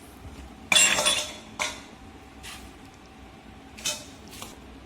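Kitchen utensils and dishes clinking: a loud clatter about a second in, then a few lighter clinks.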